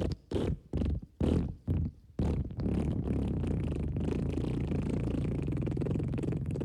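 Fart sound effects: a quick string of about six short farts, then from about two seconds in one long, continuous low fart with a rapid flutter.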